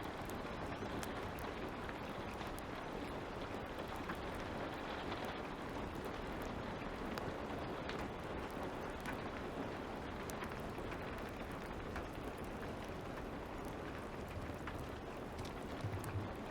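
Steady light rain ambience, a soft even patter, with scattered small pops and crackles of a wood fire throughout.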